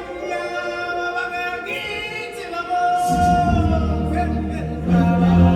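A live stage show's ensemble singing long held notes, with backing music; a heavy low bass part comes in about three seconds in.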